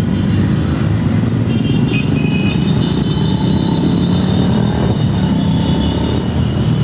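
Motorcycle engines running steadily on the road, a dense low rumble with a faint high whine over it.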